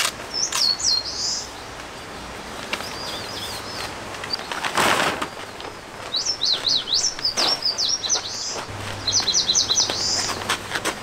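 Songbird singing in quick, high-pitched chirping phrases: one near the start, a fainter one about three seconds in, and two longer runs from about six to ten seconds. There are a few scattered clicks and a short burst of rustling noise about five seconds in.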